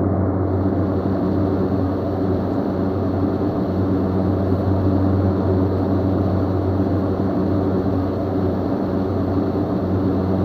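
Steady low rumble of distant engine noise that stays level throughout.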